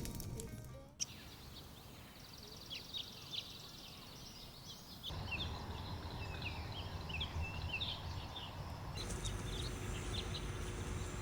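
Small birds chirping, many short high calls in quick succession, over a low outdoor rumble. Background music fades out in the first second, and the ambience steps up in loudness about five seconds in.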